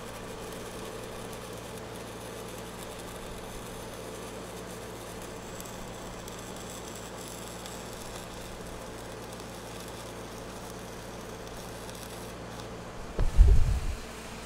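E6010 stick welding in progress: a steady hiss and hum from the arc and welding machine. A brief low thump comes about 13 seconds in.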